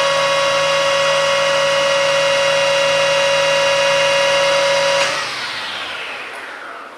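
Metalworking lathe running with a steady high whine, then switched off about five seconds in and winding down as the chuck coasts to a stop.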